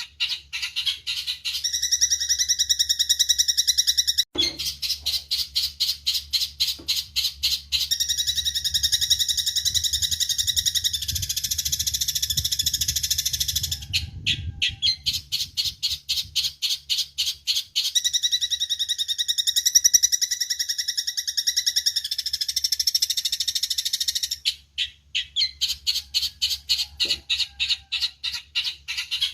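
Eurasian tree sparrow chirping in long, fast runs of short repeated notes that at times run together into dense chatter, with a few brief pauses.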